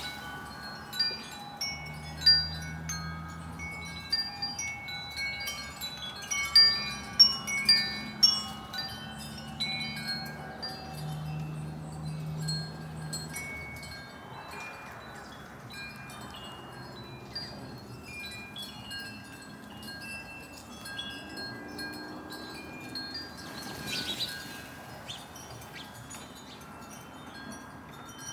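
Wind chimes ringing irregularly in the breeze, many overlapping tones struck and left to ring. The strikes are busiest and loudest in the first half and thin out later.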